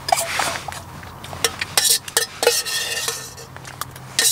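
Metal spoon scraping and clinking against metal cookware while eating, several short clinks with a brief metallic ring.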